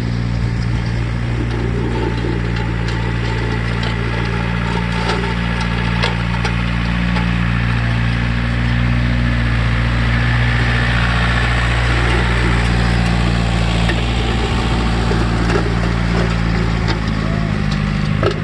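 John Deere 1070 tractor engine running steadily under load, with scattered short cracks and clicks over it.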